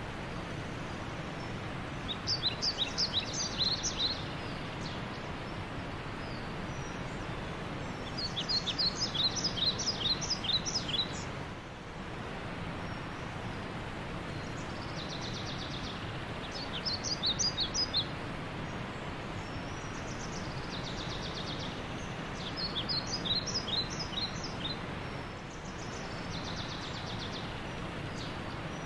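A bird chirping in runs of quick, high notes, each run lasting two to three seconds and coming about five times, over a steady background noise.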